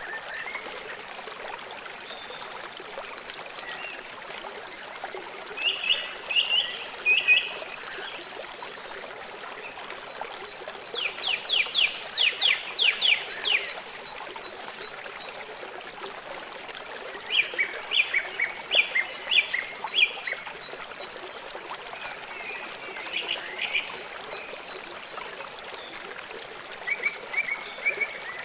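Stream running steadily, with a songbird singing short phrases of quick, clear notes every few seconds, the longest a rapid run of about ten notes near the middle.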